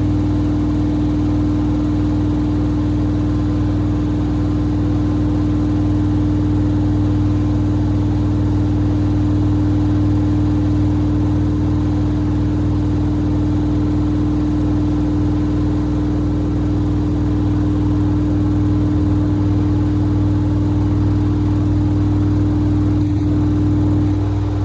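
Samsung WD70T4047CE front-loading washing machine running a cycle with two pairs of sneakers inside, a loud, steady motor hum. It gives a small click near the end, and part of the hum drops away just after.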